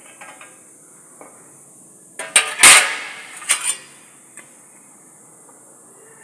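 Sheet-metal car body parts clanking as they are handled and fitted: a short cluster of sharp metallic knocks with some ringing between about two and four seconds in, the loudest near the middle.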